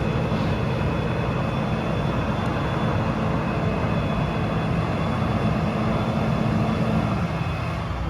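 Cummins B6.7 turbo diesel engine of a Mack MD truck running steadily, with a faint steady high whine over the engine note. The engine note eases slightly near the end.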